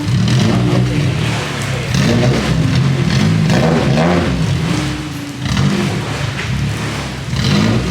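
A car engine being revved over and over, its pitch rising and falling several times in a row.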